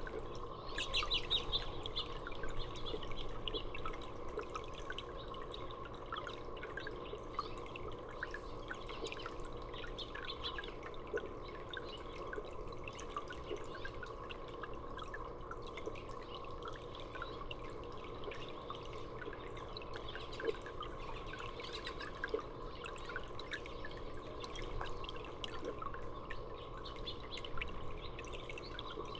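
Small birds chirping, a flurry about a second in and scattered calls after, over water dripping and trickling and a steady low hum.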